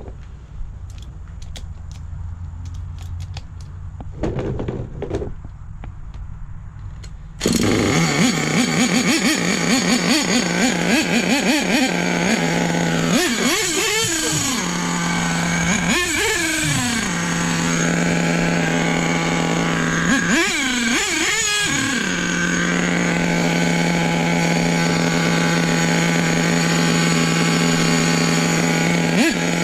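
A few taps and clicks, then a small nitro RC truck engine starts abruptly a quarter of the way in. It runs at a steady high-pitched idle, and the throttle is blipped three times in the middle. The owner suspects it is sucking air and running lean.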